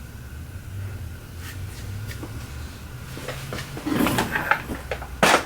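Rummaging through a drawer of supplies: a low steady hum, a cluster of clattering knocks about four seconds in, then a single louder knock near the end.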